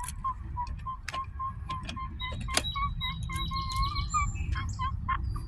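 Birds chirping outdoors: a string of short repeated notes at one pitch, joined about two seconds in by thinner, higher calls, over a steady low rumble.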